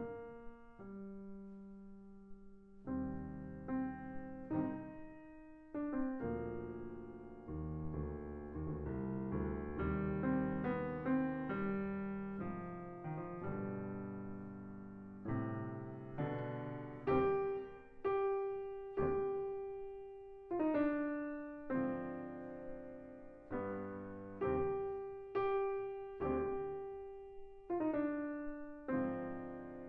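Solo piano played: chords and single notes struck and left to ring and fade, with a busier, denser passage in the middle.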